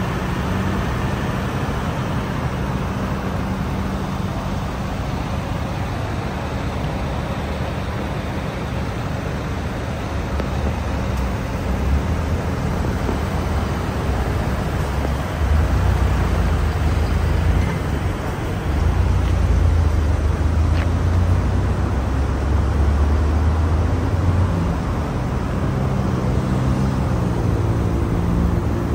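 Nissan Skyline GT-R V-spec II's RB26DETT twin-turbo straight-six idling through a NISMO Spec Pro exhaust, a steady low hum that grows louder and deeper about halfway through.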